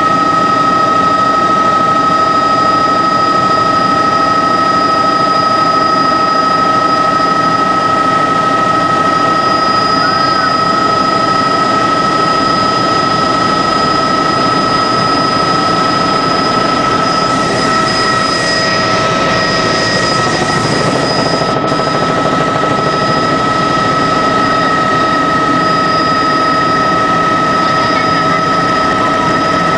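Helicopter in flight heard on board: a loud, steady mix of turbine whine and rotor and engine noise, with several high steady whining tones over a constant rushing din.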